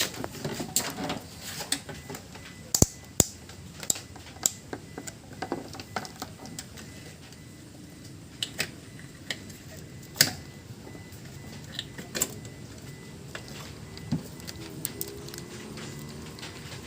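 Irregular clicks, clinks and knocks of metal tools and parts being handled, with a couple of sharper knocks standing out.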